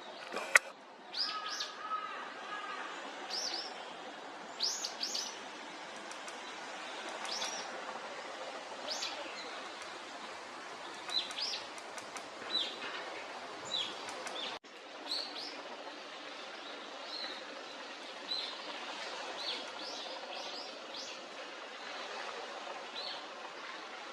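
Varied tits giving short, high chirping call notes, one every second or so, over faint outdoor hiss. A single sharp click about half a second in is the loudest sound.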